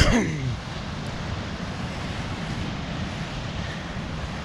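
Steady rushing noise of ocean surf and wind buffeting the microphone. A brief loud sound with a falling pitch comes right at the start.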